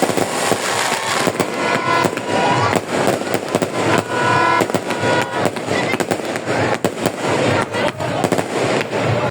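Fireworks going off in a dense, continuous barrage of bangs and crackles, with short whistling tones among them.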